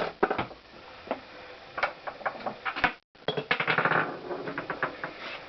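Small metal engine parts and tools being handled: scattered clicks and knocks, with a quicker run of rattling clicks about three and a half seconds in.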